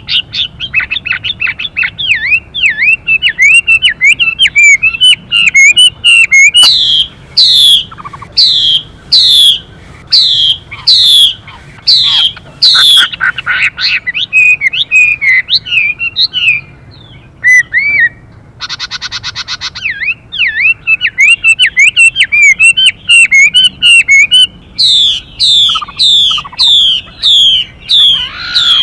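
Chinese hwamei singing loudly: quick warbled phrases alternating with runs of loud, steeply falling whistled notes at about two a second. About two-thirds of the way through there is a harsh buzzy call lasting about a second and a half, the female hwamei's 'xùy' call.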